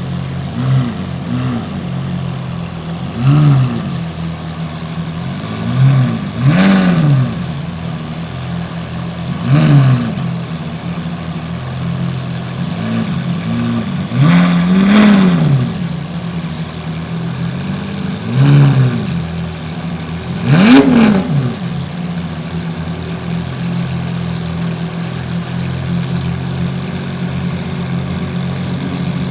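Lamborghini engines idling with about ten quick throttle blips, each rev rising and falling in pitch within a second or so, sometimes in pairs. The blips stop about two-thirds of the way through and the idle runs on steadily.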